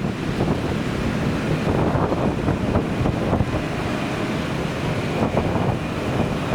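Strong wind buffeting the microphone: a loud, gusty rumble with a faint steady high tone underneath.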